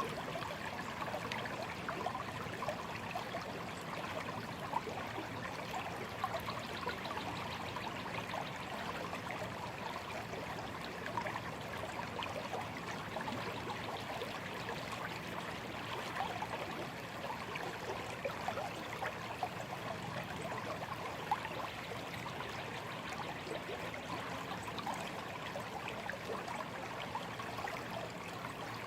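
A shallow stream flowing steadily, water trickling and babbling over stones.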